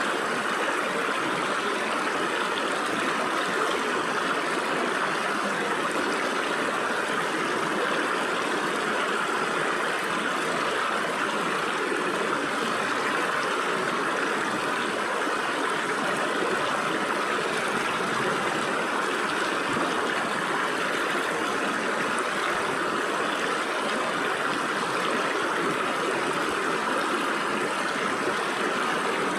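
Stream water rushing and splashing through gaps between rocks, a steady, even flow.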